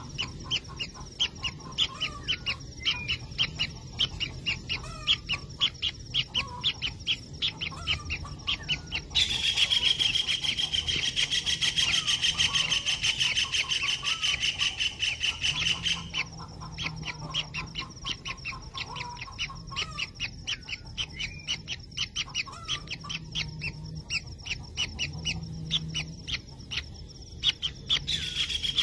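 Kingfisher nestlings giving begging calls inside the nest burrow: a fast run of short, high calls, about five a second. About nine seconds in this becomes a louder, unbroken buzz lasting several seconds, which returns right at the end.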